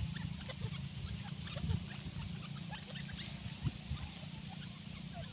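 Faint, scattered short bird chirps and small clicks over a low steady background rumble. There is no loud full call.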